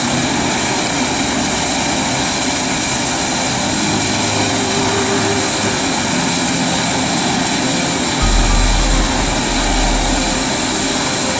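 Steady, loud drone of a biomass pellet burner's blower fan running, with a high whine over it; a deep low rumble swells in about eight seconds in and eases off about two seconds later.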